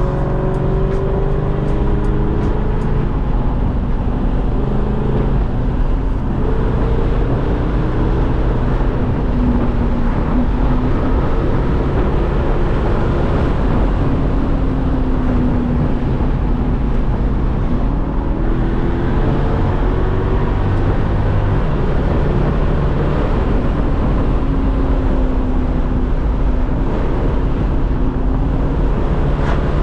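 Lexus SC400's 4.0-litre V8 with a loud exhaust, driven hard: the engine note climbs and drops several times as it accelerates and eases off, over steady wind and road noise.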